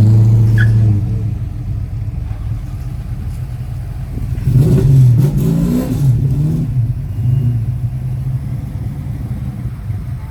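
Car engine running, loud and steady for the first second before dropping back, then revved up and down a couple of times about four to six seconds in, and settling back to a steady idle.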